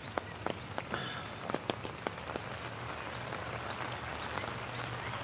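Steady rain falling, with a few sharp taps in the first two seconds.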